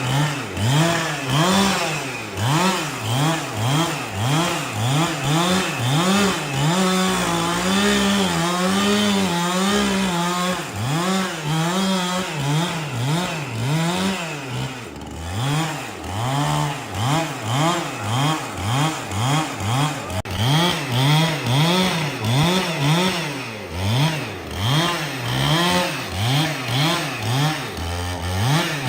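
Two-stroke chainsaw cutting wood, its engine revving up and falling back about twice a second, held at a steady high pitch for a few seconds about seven seconds in.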